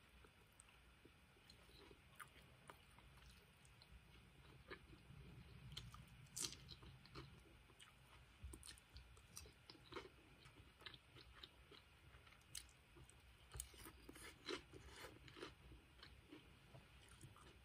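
Faint eating sounds: crisp chewing and crunching of lettuce salad, with scattered light clicks of a metal fork against a glass bowl.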